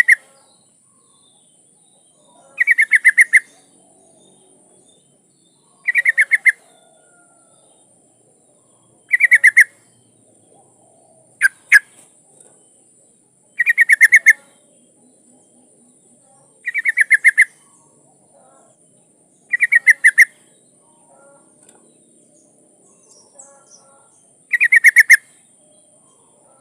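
Yellow-vented bulbul (trucukan) calling: short bursts of rapid chattering notes, each under a second, repeated about every three seconds, with two short sharp notes near the middle. It is presented as a female's call to draw in a male.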